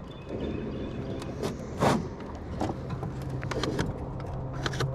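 A small electric motor humming steadily, most plainly in the second half, with scattered clicks and knocks and one short, loud noise about two seconds in.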